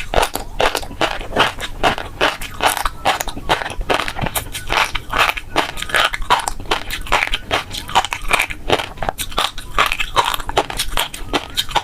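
Close-miked mouth sounds of fish roe being eaten: the beads popping and crackling between the teeth, a rapid, dense run of sharp pops and crunches, several a second, throughout.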